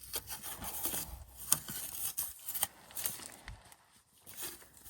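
Close handling noise from work on a hydraulic hose and its fittings: rubbing and scraping with scattered sharp clicks, one louder click about a second and a half in.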